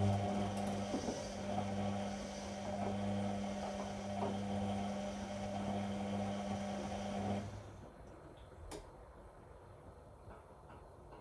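Whirlpool Indiana 1400 washing machine humming steadily before its spin, most likely its drain pump emptying the drum. The hum stops about seven and a half seconds in, and a single click follows a second later.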